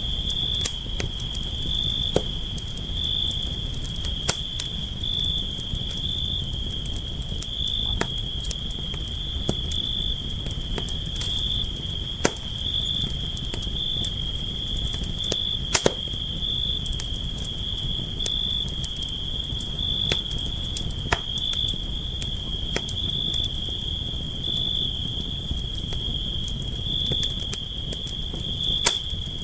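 Campfire crackling, with irregular sharp pops and snaps over a low steady rumble of the burning fire, and a continuous high trill of crickets behind it.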